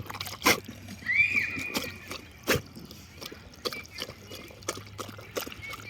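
Dog lapping water from a drinking-fountain stream: irregular wet clicks and splashes over trickling water.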